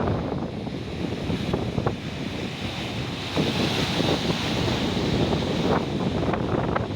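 Big ocean waves breaking and washing in, with wind buffeting the microphone; a louder rush of surf swells up about three seconds in.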